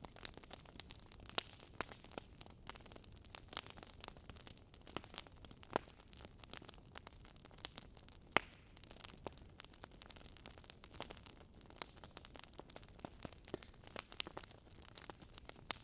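Wood fire crackling in a fireplace: irregular sharp pops and snaps over a soft hiss, with one louder pop about halfway through.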